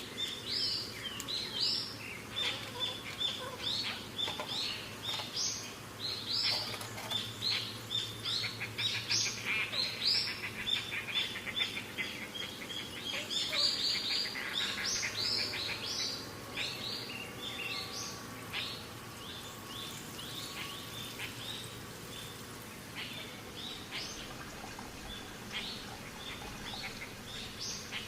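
Small birds chirping: many quick chirps overlapping in a busy chatter that thins out in the second half.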